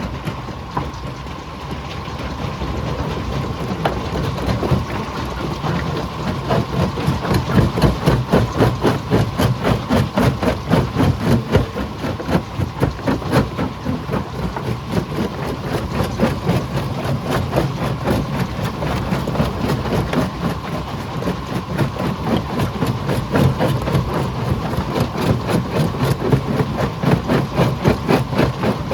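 Stone crusher machine running with rock being broken in it: a dense, rapid clatter of knocks over a steady machine hum.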